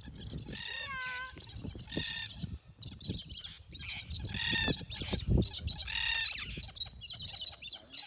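A flock of free-flying parrots, cockatoos among them, screeching in flight. Harsh calls come one or two a second and often overlap, with a clearer, falling call about a second in.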